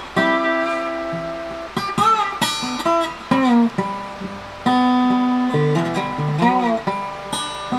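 Background music: acoustic guitar playing plucked single notes and short phrases, several notes bent or slid in pitch, each ringing and fading before the next.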